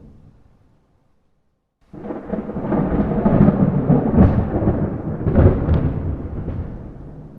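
A thunder peal: after a short dead-silent gap, a loud low rumble breaks in suddenly about two seconds in, rolls with crackles for several seconds, then fades back to a lower rumble.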